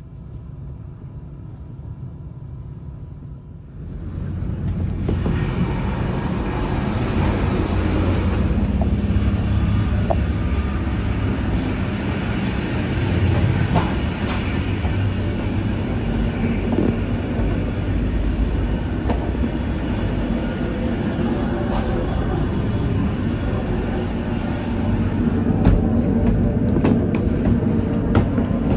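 Running noise inside a DB class 612 diesel multiple unit under way: a steady rumble of engine and wheels on the rails. It turns markedly louder about four seconds in and then holds steady, with a few sharp clicks near the end.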